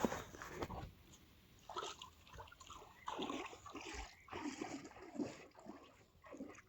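Faint, irregular splashing and sloshing of shallow river water, in short uneven bursts.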